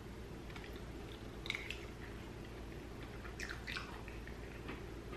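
A person chewing food close to the microphone, with wet mouth clicks and smacks, a small cluster about a second and a half in and louder ones about three and a half seconds in, over a steady low hum.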